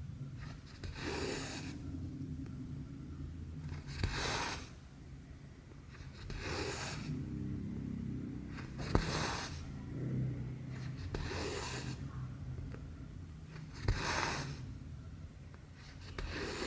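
Cotton embroidery floss being pulled through cross-stitch fabric in a steady rhythm, a short swish about every two and a half seconds, with a few faint clicks of the needle.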